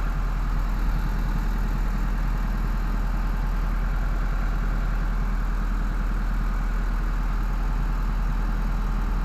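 An engine idling steadily, a constant low drone that does not change in speed or level.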